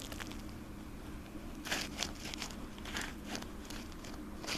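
Footsteps crunching and scuffing on a thin glaze of hard freezing-rain ice on a road, a few irregular gritty scrapes over a low steady background hum.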